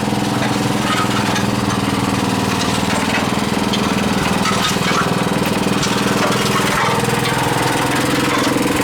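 Small gasoline engine on a concrete mixer running steadily at a constant speed.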